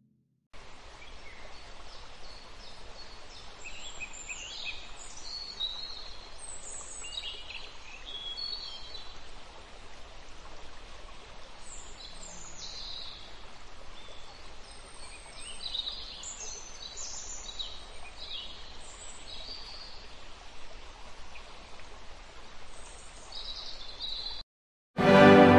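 Small birds chirping and singing over a steady hiss of background noise; the sound starts and stops abruptly. Louder music comes in near the end.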